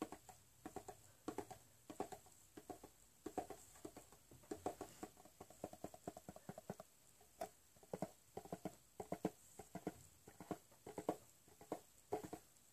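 Close-miked crunching and chewing of a crunchy corn snack: quick, irregular crunches, several a second.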